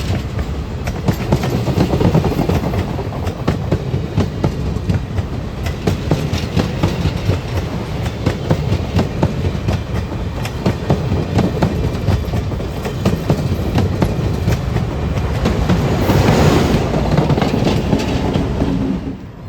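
Railroad cars rolling past close by, their wheels clicking and clattering steadily over the rail joints over a heavy rumble. About sixteen seconds in, a louder rushing swell rises, and the sound cuts off abruptly at the end.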